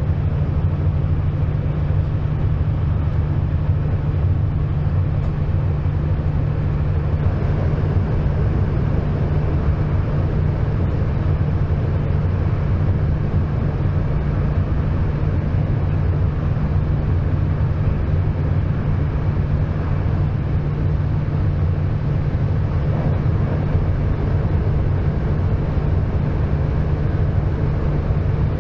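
Regional passenger train running along the track: a steady, even rumble with a deep low hum and no change.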